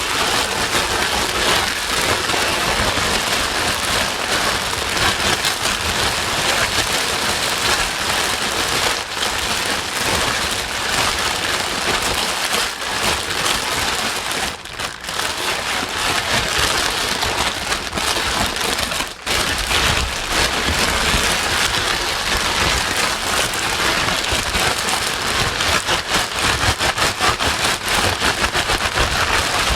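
Steady white noise with a rain-like hiss, dipping briefly twice around the middle.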